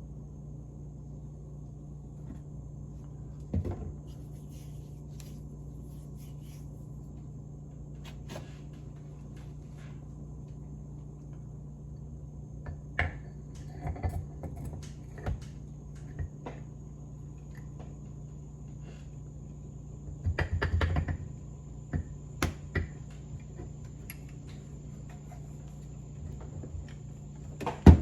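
Scattered clicks and knocks of metal steering-box parts being handled and fitted during reassembly, with a short run of clatter about three-quarters of the way through, over a steady background hum.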